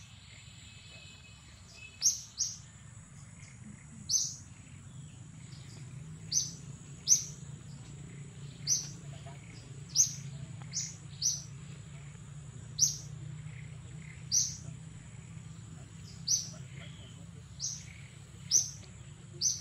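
A bird repeating a short, sharp, high chirp that drops in pitch, about once every second or two, over a steady high whine.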